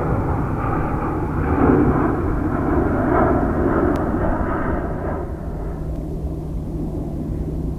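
Jet airliner engines at takeoff thrust, a loud rushing rumble that fades away from about five seconds in as the aircraft departs.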